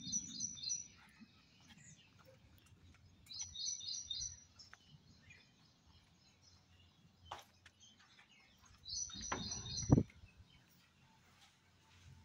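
A songbird repeating a short phrase of about four quick, high notes, three times. Two dull thuds come near the end, the second about ten seconds in and the loudest sound of all.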